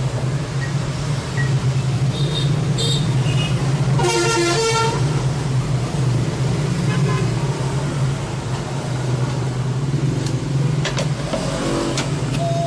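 Steady road traffic noise with a vehicle horn sounding briefly about four seconds in, and a few sharp clicks near the end.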